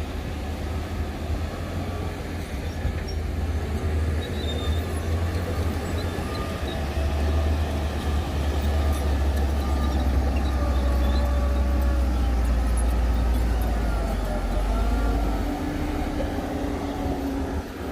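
Heavy diesel construction machinery running with a deep engine rumble that builds under load through the middle and eases off about three-quarters of the way in, with faint wavering whines above it.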